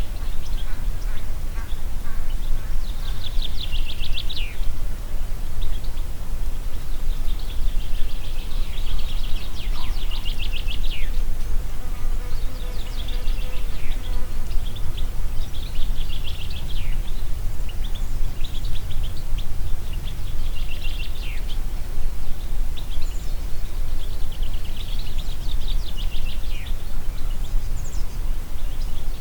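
Steady low wind rumble through the forest, with a songbird repeating a fast trilled phrase that ends in a downward slur every few seconds.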